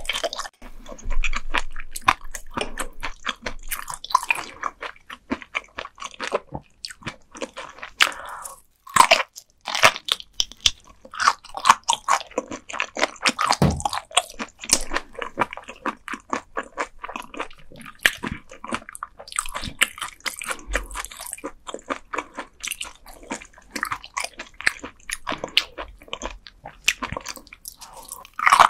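Close-miked chewing of raw gizzard shad eaten bones and all: an unbroken run of crunchy bites and chews with no pauses.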